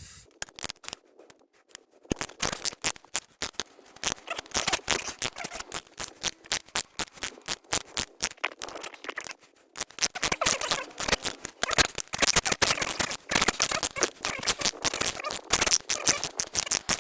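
Ratchet wrench clicking rapidly as a motorcycle exhaust stud is worked loose, starting about two seconds in, with a brief pause partway through.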